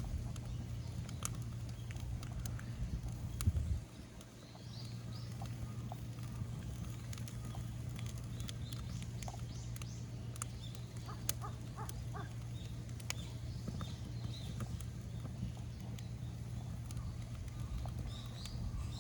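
Bonfire of damp rubbish crackling, with scattered sharp pops over a steady low hum. There is a louder thump about three and a half seconds in.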